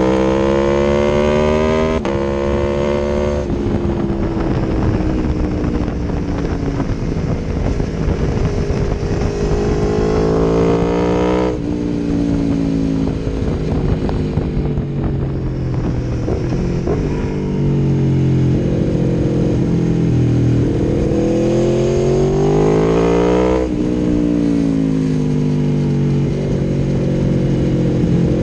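Aprilia Tuono V4 1100 Factory's V4 engine through an Akrapovič exhaust, riding under load. The pitch climbs and drops sharply at each upshift, about two and three and a half seconds in. In the middle it falls away slowly with scattered crackles off the throttle, then climbs hard again and drops near the end.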